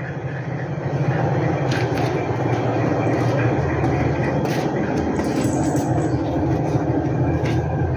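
A steady low mechanical rumble with a few faint clicks.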